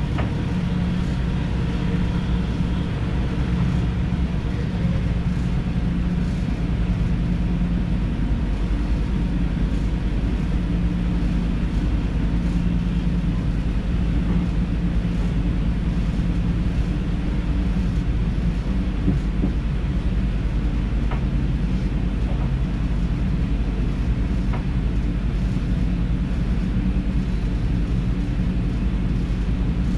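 Steady running noise of an NS DDZ double-deck electric train heard from inside the driver's cab: a low rumble with a steady hum and a couple of faint clicks in the second half.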